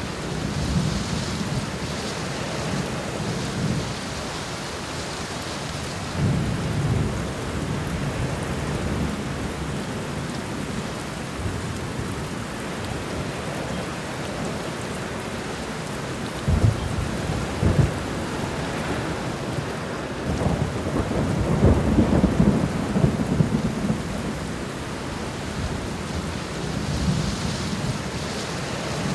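Thunderstorm: steady heavy rain with thunder rumbling several times. A sharper clap comes about halfway through, and the loudest, longest roll of thunder follows a few seconds later.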